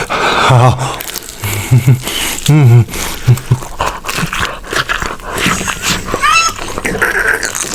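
A dog barking in short pitched bursts, with people's voices mixed in.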